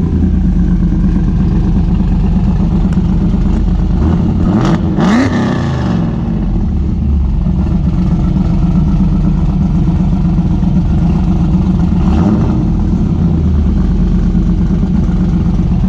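ProCharger-supercharged Pontiac Trans Am engine running loudly just after a cold start, blipped once about five seconds in with a quick rise and fall in pitch, and revved lightly again near twelve seconds.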